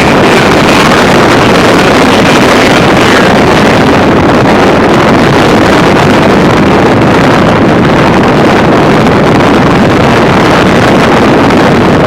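Strong wind gusting at 40 to 60 mph, buffeting the microphone in a loud, steady rumble.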